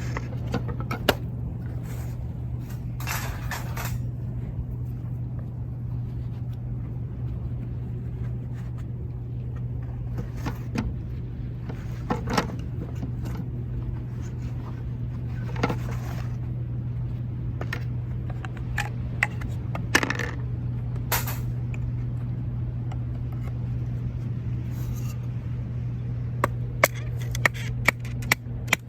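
Scattered clicks, knocks and short scrapes of camp gear being handled, over a steady low rumble. Near the end, sharp wooden knocks start coming about twice a second.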